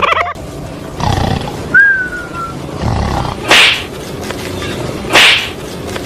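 Loud animal calls: two harsh blasts about a second and a half apart, over steady background noise.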